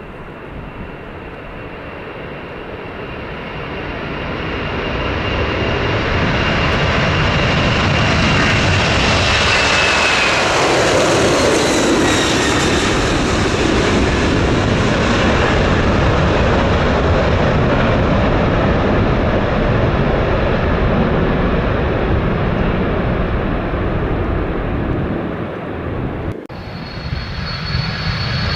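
Jet airliner engines growing louder as the aircraft approaches and passes close by, their high whine dropping in pitch as it goes past. Near the end an abrupt cut to another jet's engines, with a steady higher whine.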